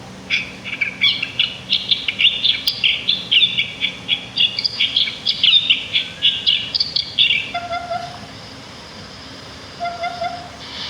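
Small songbirds chirping and twittering rapidly in a dense, overlapping chorus. After about seven and a half seconds the chorus drops away, leaving a few short, lower calls.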